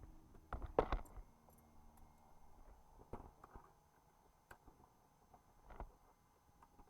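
A few scattered clicks and knocks of handling in a quiet aircraft cockpit with the engine stopped, the loudest cluster about a second in.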